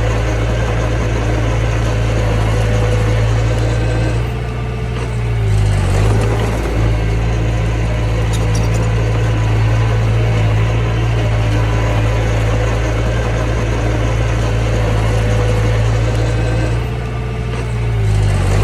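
Diesel engine of a mini bulldozer running steadily. Its pitch and loudness dip briefly about four to six seconds in and again near the end, then come back up.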